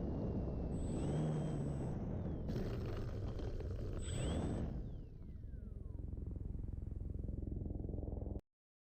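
Wind buffeting the action camera's microphone: a steady low rumble, with a couple of brief faint high whines. The sound cuts off abruptly near the end.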